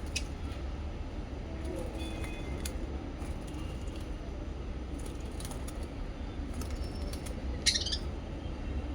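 Pet lovebirds or budgies giving scattered faint chirps and clicks, with one louder short squawk near the end, over a steady low hum.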